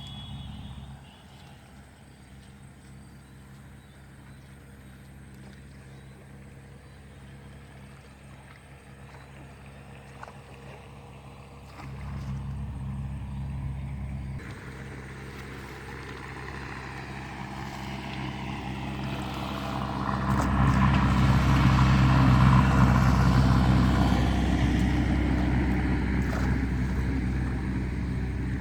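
A motor engine running steadily, growing louder as it comes closer, loudest about two thirds of the way through, then easing off slightly.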